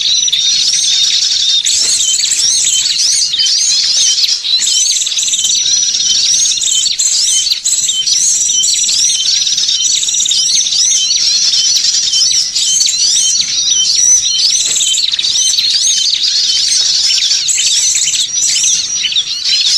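Many small songbirds chirping and twittering at once, with dense, overlapping high-pitched calls and no pause: a bird-lure (pikat) recording of small birds.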